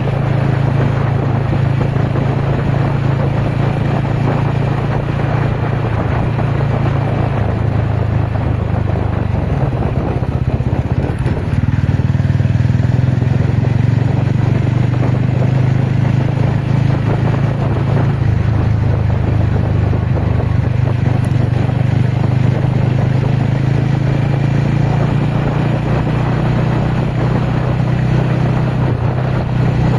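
TVS Ronin single-cylinder motorcycle engine running under way at fairly steady revs, easing off briefly about ten seconds in and again near eighteen seconds, over a rush of wind and ground noise.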